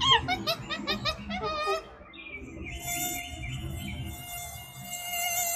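A monkey's rapid chattering calls, about six short chirps a second, each dropping in pitch, stop about two seconds in. A mosquito's steady high whine then takes over, wavering slightly.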